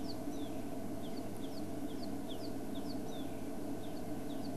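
Bird calls: a rapid, even series of short, high chirps, each sliding downward, about three or four a second and alternating between two pitches, over a steady low hum.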